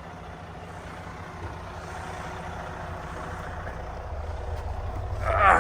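Heavy truck's diesel engine idling, a low steady rumble that slowly grows louder, with a short pitched sound right at the end.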